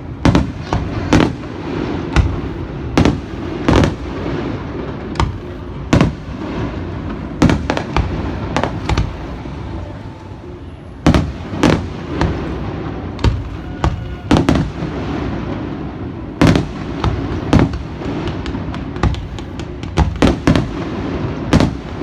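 Fireworks bursting overhead: a long run of sharp bangs at irregular intervals, some coming in quick clusters, over a continuous low rumble.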